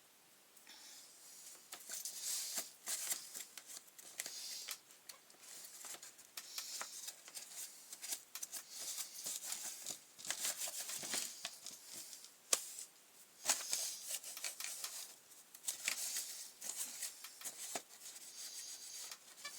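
Irregular rubbing and scrubbing strokes on a grass trimmer's parts as they are cleaned, short hissy strokes coming in uneven bursts.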